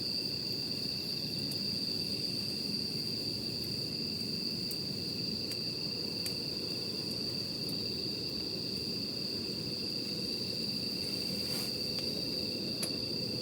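Campfire burning with scattered sharp crackles and pops, the strongest near the end, under a steady high insect trill from crickets.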